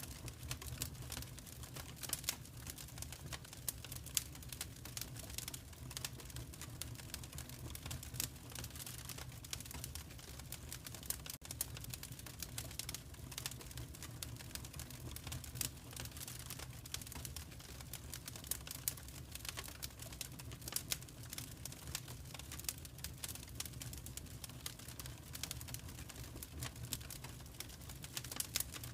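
Wood fire crackling: a constant run of small, irregular pops and snaps over a steady low rumble.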